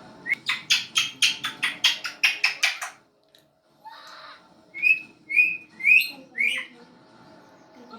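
Pet parrot calling: a fast run of about a dozen harsh squawks, roughly four a second, then, after a pause, four short upward-curving whistles.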